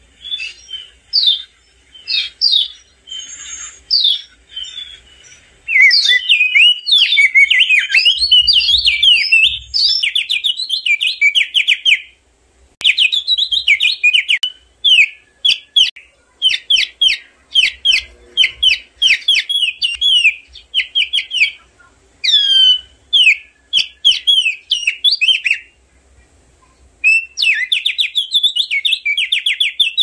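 Crested white-eye (opior jambul) singing: loud, rapid phrases of sharp high chirps and quick trills, broken by a couple of short pauses.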